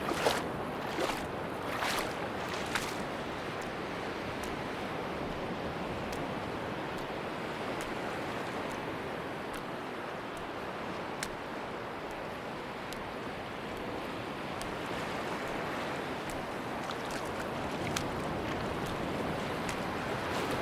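Sea surf washing steadily on a beach, with a few short crisp ticks in the first few seconds and again near the end.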